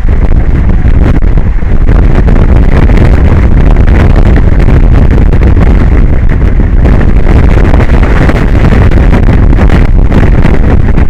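Strong wind buffeting the microphone: a loud, steady, rumbling roar with no breaks.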